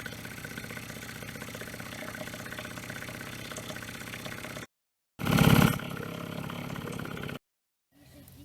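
An engine running steadily at a low, even pulse, heard in two short stretches that each begin with a louder burst and end in an abrupt cut to silence.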